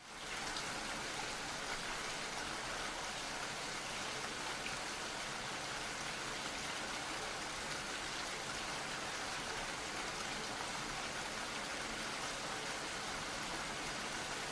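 Steady rainfall: an even, unbroken hiss of rain that fades in at the very start and holds constant.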